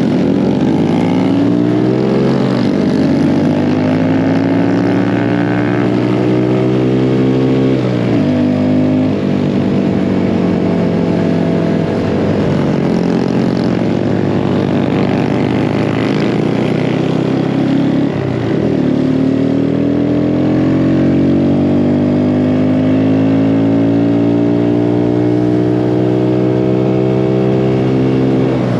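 Mini bike engine running under throttle while riding, its pitch climbing steadily. Twice, about a third and about two-thirds of the way through, the pitch drops sharply as the throttle comes off, then climbs again.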